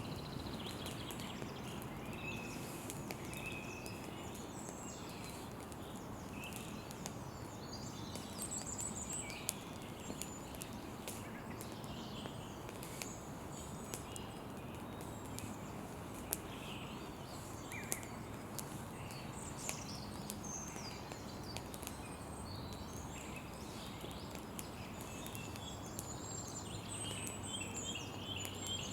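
Wood campfire crackling steadily, with scattered sharp pops, while birds chirp in the background.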